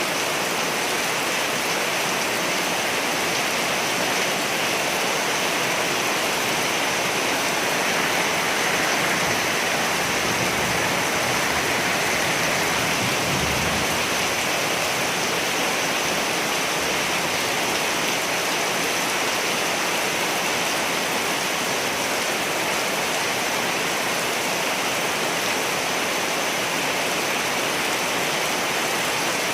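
Steady heavy rainfall, an even hiss of rain on surfaces, with a faint low rumble about halfway through.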